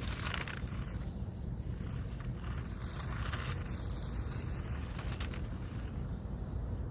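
Small electric RC short course truck, a Team Associated SC28, driving over the ground, with bursts of hissing tyre scrabble over a steady low rumble.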